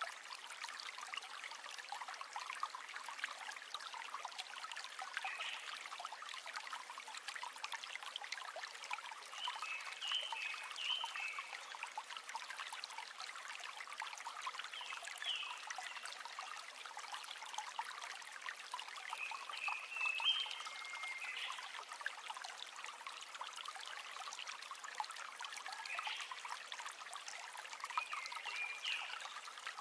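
River water flowing and trickling steadily, a continuous splashy rush without pauses, with brief higher chirps every few seconds.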